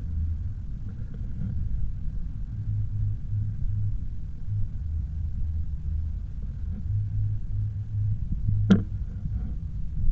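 Low, steady rumble of riding an e-bike, with wind and road noise buffeting the camera microphone. A single sharp click or knock about three quarters of the way through.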